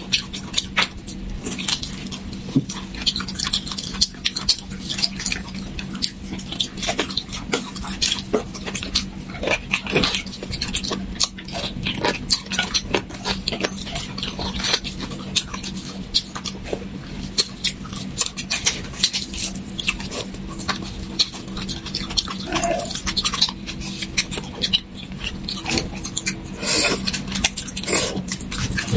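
Close-miked eating sounds of beef bone marrow being sucked and chewed: quick, irregular wet smacks, slurps and clicks of the mouth, over a faint steady hum.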